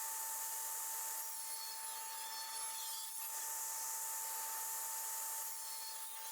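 Table saw with its blade set low cutting through a glued beech-and-wenge hardwood blank: a steady whine with the hiss of the cut, dipping briefly about three seconds in and again near the end.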